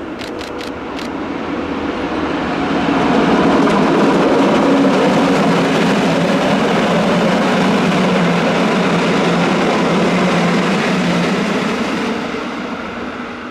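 Rhaetian Railway Ge 4/4 II electric locomotive and its train of metre-gauge coaches passing close by, wheels running on the rails with a steady low hum. The sound swells over the first few seconds, holds, then fades as the last coach goes by, with a few sharp ticks in the first second.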